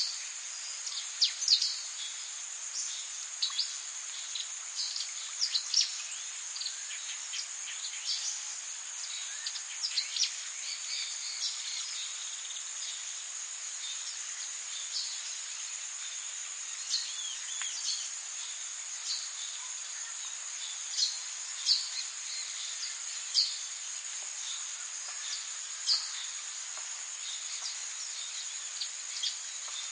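Tropical rainforest ambience: a steady high-pitched insect drone with frequent short bird chirps scattered over it, busier in the first half.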